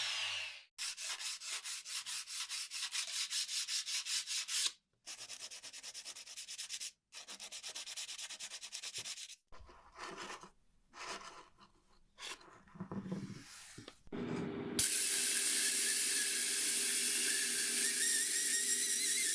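Sandpaper rubbed in quick, even back-and-forth strokes, in several short runs with sudden breaks. Near the end this gives way to a louder steady hiss with a low hum underneath.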